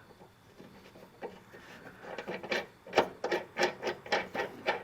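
A nut being started by hand on the threads of a mower-deck blade spindle: irregular small metallic clicks and rubbing, scattered at first and coming faster from about halfway through.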